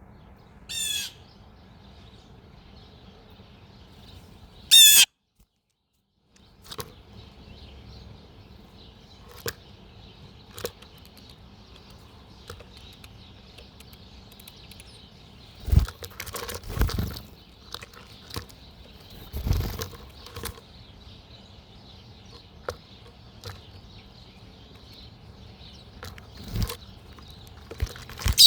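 Wild birds at a backyard feeder: two loud, harsh calls about a second and five seconds in, then wing flutters and knocks at the feeder, a cluster in the middle and one near the end, over a faint steady hiss.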